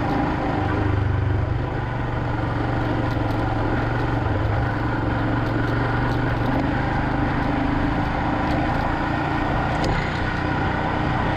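Royal Enfield Himalayan's single-cylinder engine running steadily while the motorcycle is ridden, its note shifting slightly a couple of times as the throttle changes.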